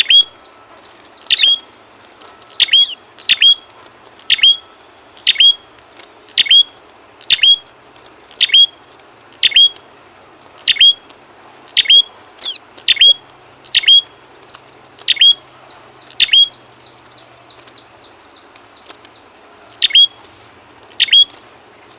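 Recorded calls of the prenjak kepala merah, a small prinia-type bird: loud, sharp notes, each a quick downward sweep with a hooked end, often given in pairs about once a second. Near the end the loud notes pause for a couple of seconds while a softer, fast run of little notes continues, then the loud calls resume.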